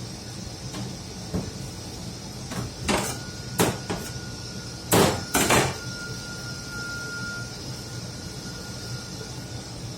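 A series of knocks and bangs, about seven in all, the two loudest close together about five seconds in, over a steady background hum. A faint, thin, steady high tone starts about three seconds in and stops near the end.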